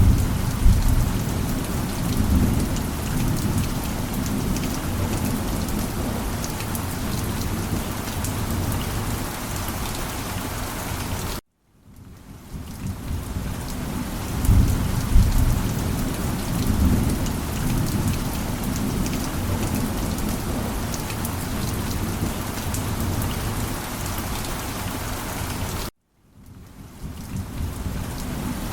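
Steady heavy rain with low rolling thunder rumbles swelling now and then. Twice, about a third of the way in and again near the end, the sound cuts out suddenly to silence and then swells back in, like the seam of a looped ambience track.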